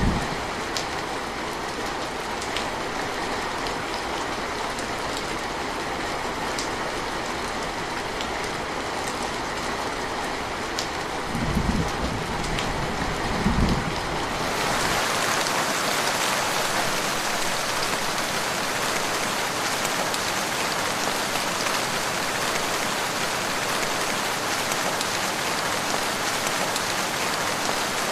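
Steady rain with scattered individual drops ticking through it. Two short low rumbles come about halfway through. After that it changes to a louder, even hiss of heavier rain.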